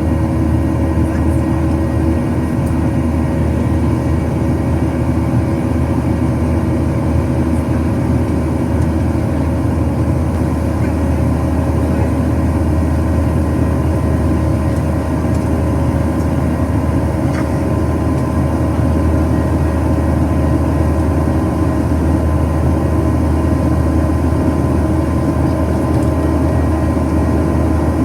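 Steady cabin drone of a Boeing 737-800 climbing out, from its CFM56-7B turbofan engines and the airflow: a low rumble with a few steady tones above it.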